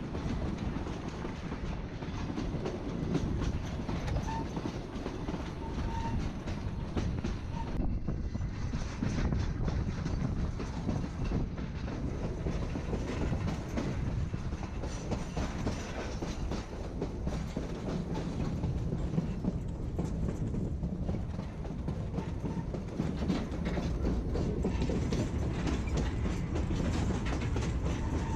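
Narrow-gauge passenger train rolling along the track: a steady rumble with the wheels clicking over the rail joints.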